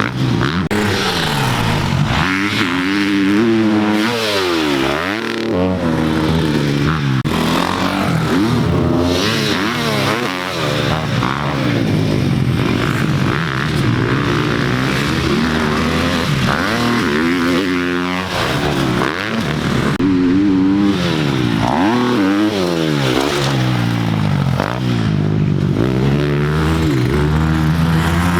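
Motocross dirt bike engine revving hard and backing off again and again as the rider works the throttle around the track, its pitch rising and falling every second or two.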